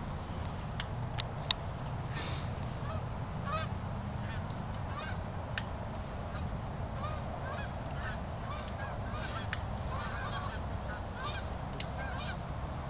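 Birds calling: many short, repeated calls scattered through, over a steady low rumble.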